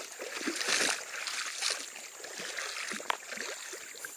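Creek water splashing and sloshing in uneven bursts, with a sharp click about three seconds in.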